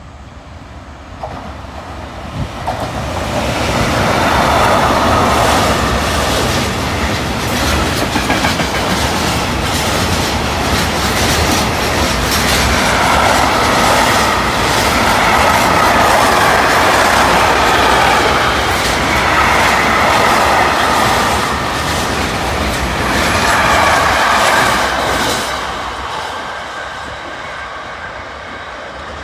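Container freight train with an E483 electric locomotive passing through, pulling flat wagons loaded with shipping containers, some wagons empty. Heavy rolling rumble with steady clickety-clack of wheels over the rail joints. The sound builds over the first few seconds, stays loud for about twenty seconds as the wagons go by, then fades as the train moves away.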